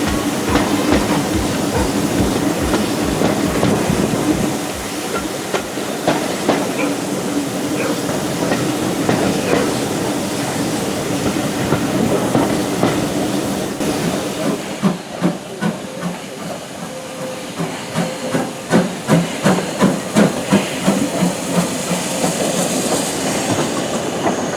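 Steam-hauled heritage train running, heard from on board: wheels clicking rhythmically over the rail joints under a steady hiss of steam. The clicks come more slowly in the second half as the train eases towards a station, and a higher hiss rises near the end.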